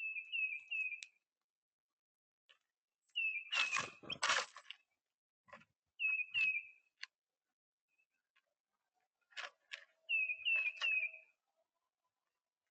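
American goldfinch calls: short, high, downslurred chirps in quick clusters of two or three, repeated every few seconds. A brief clattering rustle comes around four seconds in, the loudest sound, with a few lighter knocks later.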